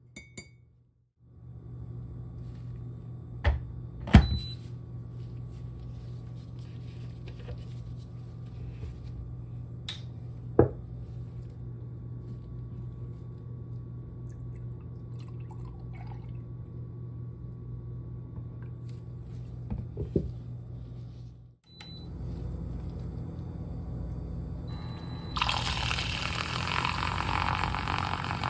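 Kitchen sounds while a drink is made: a steady low hum with a few sharp clicks and knocks of kitchenware. Near the end comes a loud rushing, hissing liquid sound.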